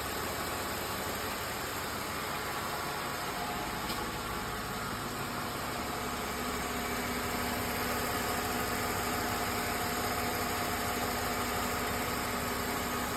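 Freshly assembled Mercedes-Benz M272 V6 engine idling steadily on its first start-up, slightly louder from about seven seconds in.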